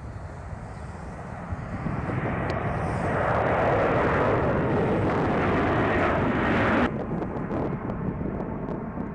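Airbus A330 MRTT's Rolls-Royce Trent 772 turbofan jets growing louder as the airliner passes, then cutting off abruptly about seven seconds in, leaving low wind rumble on the microphone.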